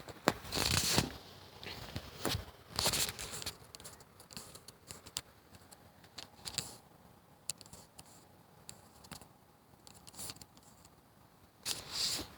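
Irregular rustling and scraping noises with scattered sharp clicks, in short bursts separated by quieter gaps.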